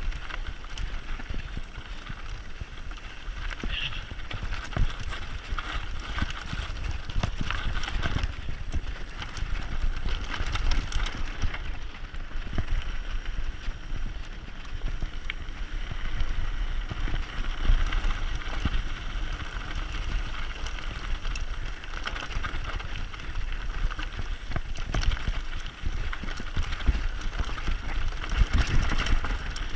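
Mountain bike descending a dirt forest trail: tyres running over the ground with frequent rattles and knocks from the bike as it rolls over bumps, under a steady low rumble.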